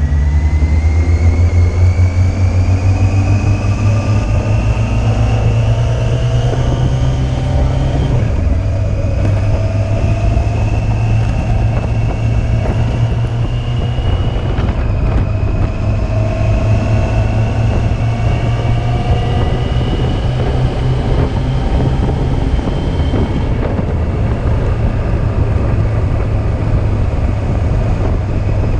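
Yamaha Fazer 600 inline-four motorcycle engine under way, its pitch climbing slowly as it pulls, then dropping with a gear change about eight seconds in and easing again twice later. Steady wind rush on the microphone underneath.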